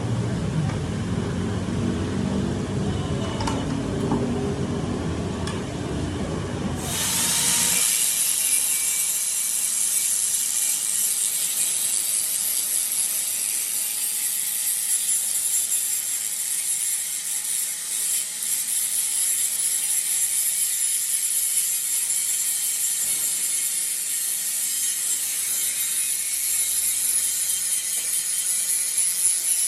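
Metal being worked by a workshop tool in a gear repair: a low rumbling noise for the first several seconds, then from about seven seconds in a steady, high, hissing cutting sound that runs on unbroken.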